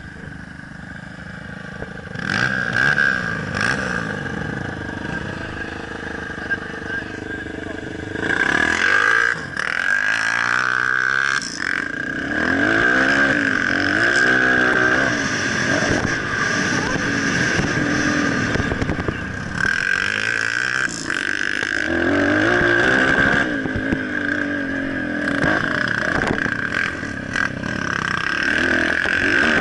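Motocross bike engine being ridden, its pitch rising and falling again and again as the rider revs and shifts. A steady high-pitched whine runs alongside.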